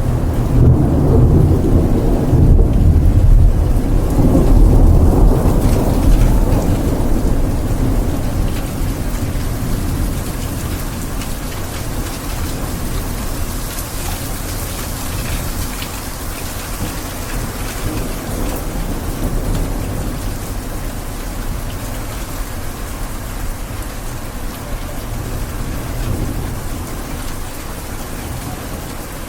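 Rain and thunder: a low rumble of thunder swells over the first few seconds and fades, and steady rain runs on after it.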